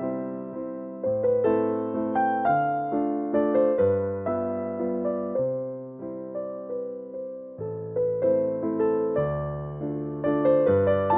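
Background music: a gentle piano or electric-piano melody with notes struck and left to ring away in a steady rhythm.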